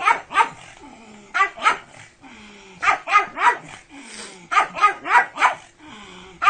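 A pug barking excitedly: about a dozen short, sharp barks in quick clusters of two to four, with brief pauses between the clusters.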